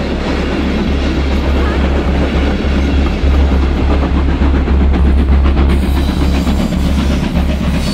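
Passenger coaches of a steam-hauled train rolling past close by, their wheels clattering over the rails.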